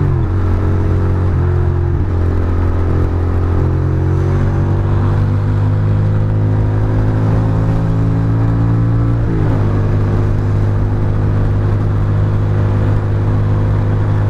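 Ducati Monster's V-twin engine pulling under throttle at speed, its pitch dropping at an upshift right at the start and again about nine seconds in, climbing slowly in between, over a haze of wind and wet-road noise.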